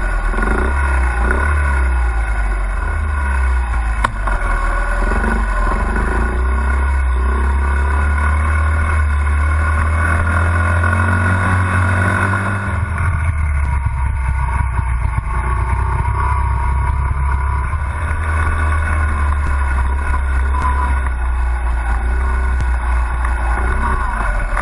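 Honda CRF50 mini dirt bike's small single-cylinder four-stroke engine running, its note rising and falling as the throttle is worked, with a change in the low rumble about halfway through.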